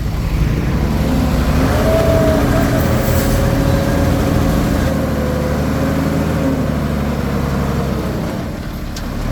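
Komatsu D21P bulldozer's diesel engine running under load, with a brief high squeal about two seconds in and the engine note easing near the end.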